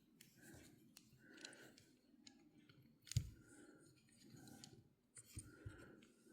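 Faint, scattered small metallic clicks and taps of pliers and a tiny C-clip against the parts of an Abumatic 150 spinning reel as the clip is worked into place, with one sharper click about three seconds in and two more a little after five seconds.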